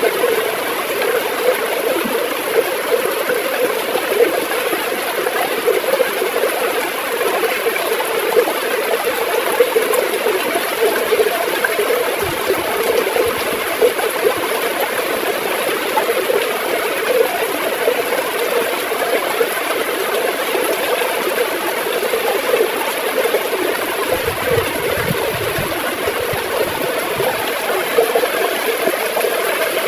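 River water gurgling and flowing steadily.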